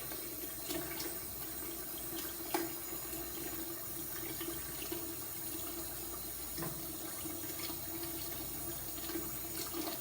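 Steady rushing, water-like noise with a few light clicks and knocks, one sharper knock a couple of seconds in.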